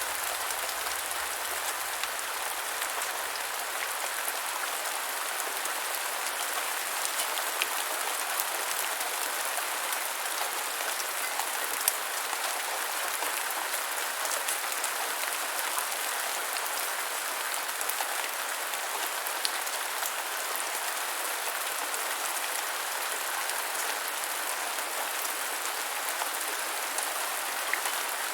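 Steady gentle rainfall, a continuous patter with scattered individual drops ticking louder.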